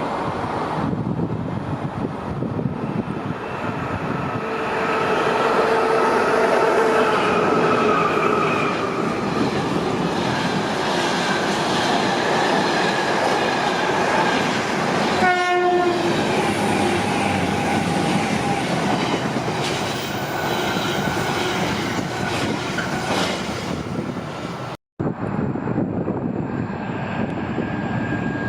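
A freight train running past on the main line: a continuous rumble of wheels and wagons with some clickety-clack, and steady pitched whines from the train. A short horn blast sounds about halfway through.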